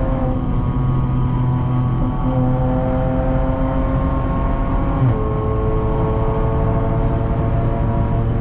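Straight-piped Audi's engine and exhaust droning at steady revs while driving, its pitch dropping a little about five seconds in.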